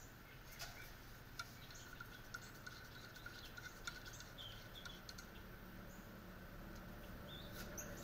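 Quiet outdoor background with a few faint bird chirps and occasional soft clicks from hands tightening the set screws on a knockout tool's collar.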